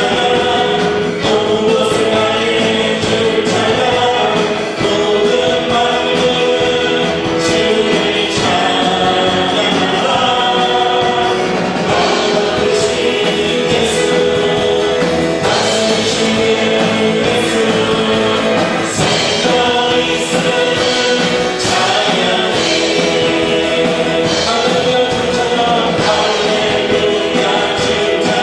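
Worship team and congregation singing a praise song together, with instrumental accompaniment and a steady beat.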